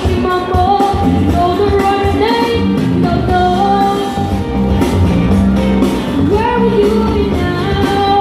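A man singing a rock song live over steady instrumental backing.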